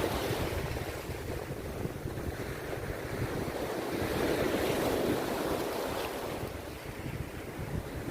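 Rough sea surf breaking and washing on a beach, the roar swelling and easing twice, with wind buffeting the microphone.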